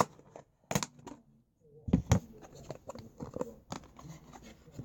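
Slime being squished and stretched by hand, giving irregular sticky clicks and pops, with a gap of near silence lasting about a second shortly after the start.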